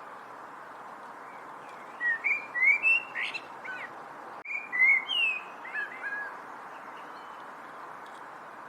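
A songbird sings two short phrases of quick, gliding whistled chirps, the first about two seconds in and the second just after the middle. A steady background hiss runs underneath.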